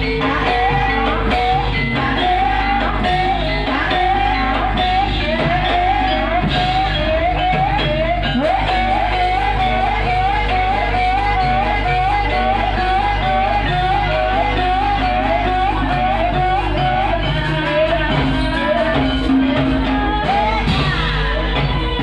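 Javanese gamelan-style music accompanying an ebeg hobby-horse dance, with a singer's wavering, repeating melodic line over steady low notes.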